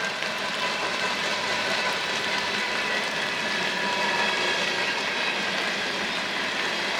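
Train approaching on the rails, its noise building steadily, with faint steady high-pitched tones from the wheels or rails coming in partway through.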